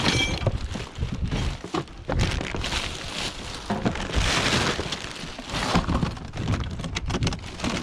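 Clattering and rustling of plastic junk being rummaged through and handled, many small irregular knocks and clicks, over a low rumble of wind on the microphone.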